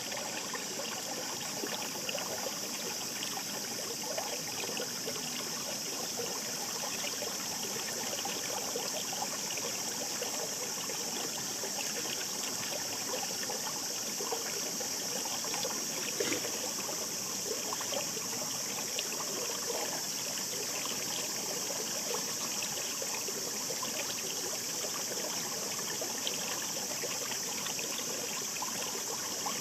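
A shallow mountain stream babbling steadily, a constant rush of water with many small trickles and splashes.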